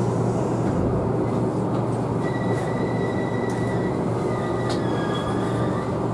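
Tobu Utsunomiya Line local electric train running through station points, heard from inside the leading car: a steady rumble of wheels on rail, with a thin high wheel squeal starting about two seconds in that shifts lower in pitch near the end.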